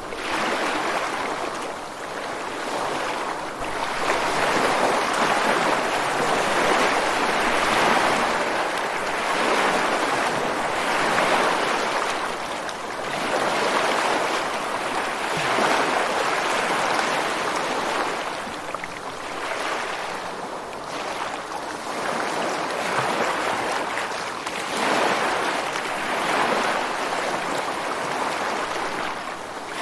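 Ocean surf breaking against a rocky shore: a continuous rushing wash that swells and eases every few seconds as each wave comes in.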